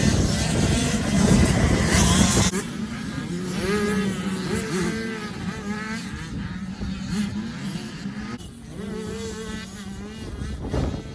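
Motocross bikes racing, their engines revving up and down as they ride the track. The sound is loud for the first two and a half seconds, then drops suddenly to more distant bikes rising and falling in pitch.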